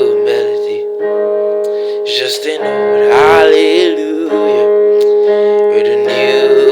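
Music: sustained piano chords, with a singer's wordless run with vibrato about three seconds in.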